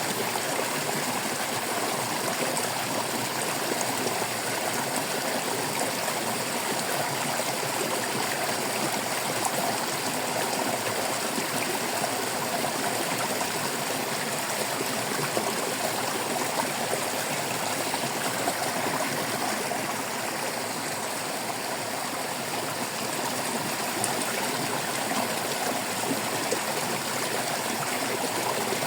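Shallow stream water babbling and trickling over rocks, a steady continuous rush with small splashes flickering through it.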